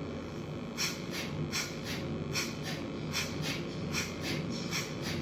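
Kapalbhati breathing: rapid, forceful exhalations snorted out through the nose, starting about a second in and repeating steadily at two to three strokes a second over a low steady hum.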